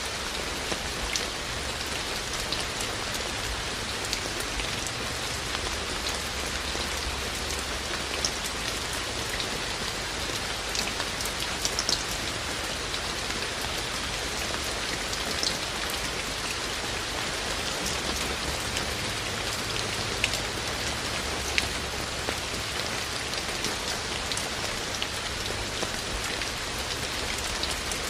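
Steady rain falling, a continuous hiss with scattered sharper taps of individual drops striking close by.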